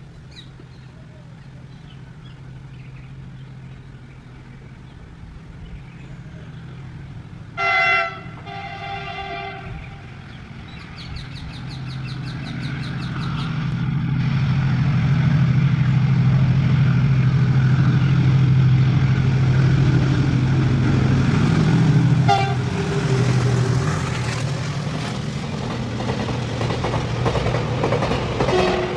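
Double-stack container freight train approaching and running past behind an electric locomotive, with a steady low hum that grows louder over the middle of the stretch as the wagons rumble by. A locomotive horn sounds two blasts about eight seconds in and a short toot a little after twenty seconds.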